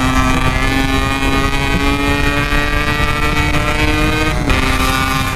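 Yamaha RX-King two-stroke single, bored to 144 cc, pulling under steady throttle with its pitch slowly climbing, then dipping sharply about four and a half seconds in before pulling on, with wind rumble on the microphone.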